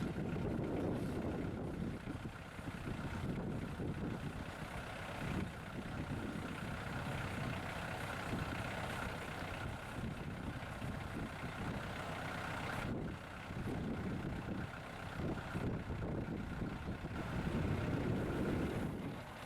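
Tractor engine running steadily just over idle, driving a PTO-powered post-hole digger auger as it bores into the ground.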